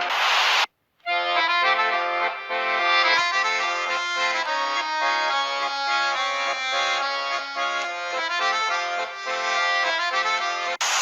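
Accordion music: a lively tune over a chordal accompaniment. It starts about a second in, after a short burst of noise and a brief drop-out.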